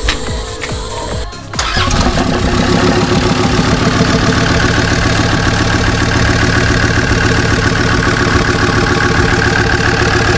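A newly fitted used (contract) engine on one of its first starts after the swap: it fires about one and a half seconds in and settles into a steady idle.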